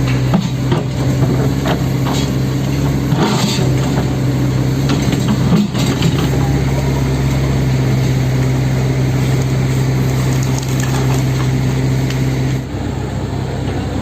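Breaker hammer pounding rapidly into a concrete bored pile head, breaking up the concrete, with a steady machine drone underneath; the hammering stops near the end.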